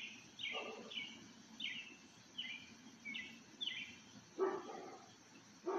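A bird chirping over and over, a string of short falling notes about two a second. A dog barks a couple of times, loudest about four and a half seconds in.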